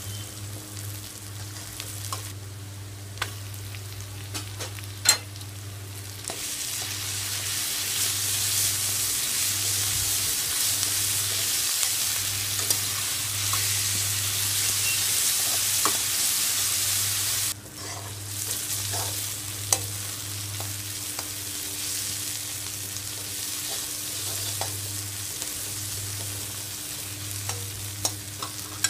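Onions, peppers and chopped masala sizzling as they fry in a metal wok, stirred with a metal spatula that clicks and scrapes against the pan. The sizzle grows louder about six seconds in and drops suddenly about two-thirds of the way through, over a steady low hum.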